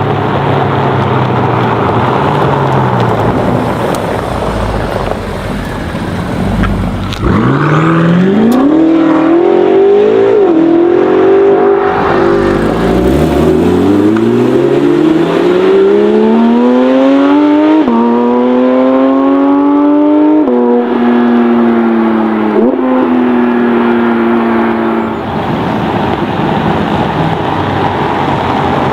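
A high-performance car engine rumbling, then revving hard as the car accelerates away. Its pitch climbs through the gears and drops suddenly at each of several upshifts, then fades near the end.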